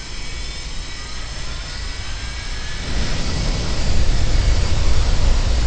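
Boeing 737-200's Pratt & Whitney JT8D jet engines running, a steady whine with faint slowly rising tones over rushing noise. About three seconds in the sound gets louder, with a heavy low rumble.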